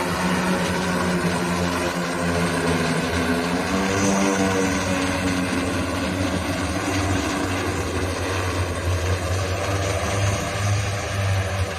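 Lift Aircraft Hexa eVTOL's eighteen electric propellers droning steadily in flight, a low hum with several tones that waver slightly in pitch.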